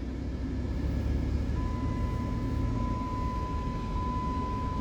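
Car driving slowly, a steady low road and engine rumble heard from inside the cabin. About a second and a half in, a thin, high, steady electronic tone comes in and holds.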